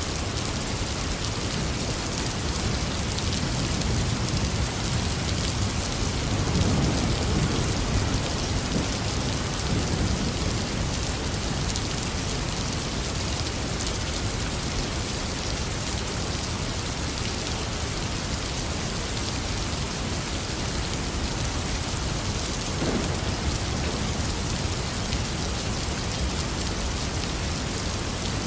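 Heavy rain falling steadily, with a low rumble of thunder rolling through about a quarter of the way in and a shorter, fainter rumble near the end.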